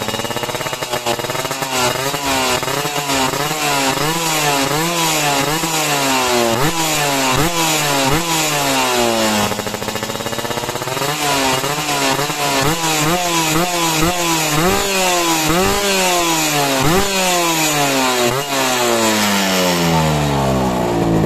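Motorcycle engine through a Creampie CR22 Type A aftermarket exhaust, revved up and dropped back over and over in quick blips, about one a second. Near the middle the revs fall away slowly before the blipping picks up again, and near the end the engine settles toward idle.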